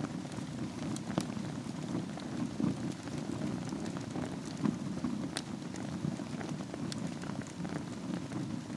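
Wood fire burning in a fireplace: a steady low rush of flames with frequent small crackles and a few sharper pops.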